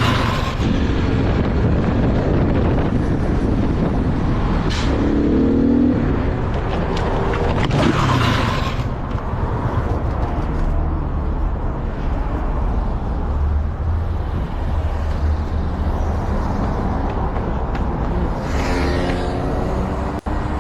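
Motorcycle riding on a road: a steady engine and wind rumble with passing traffic, and brief pitched sounds about five seconds in and again near the end.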